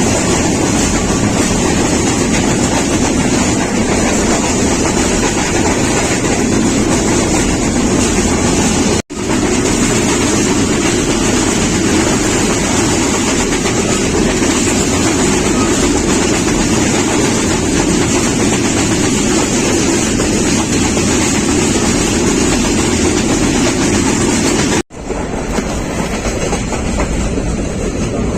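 Passenger train running at speed: a steady loud rumble of wheels on rails with clickety-clack. The sound drops out abruptly twice, about 9 and 25 seconds in, and runs on slightly quieter after the second break.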